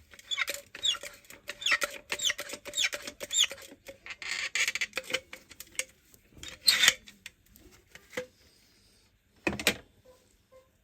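Squeaky chirps and squelches, several a second, as silicone sealant is squeezed out and worked in with gloved fingers around a car door speaker. Partway through comes a short hiss, then two louder short scraping noises.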